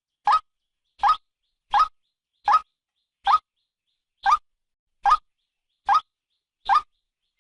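Female white-breasted waterhen calling in a steady series of short, rising notes, about one every 0.8 seconds: a recorded lure call for trapping waterhens.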